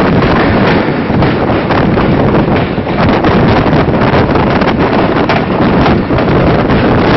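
Strong wind buffeting the microphone, held out of the doorway of a moving passenger train coach, over the steady rumble of the train running on the track.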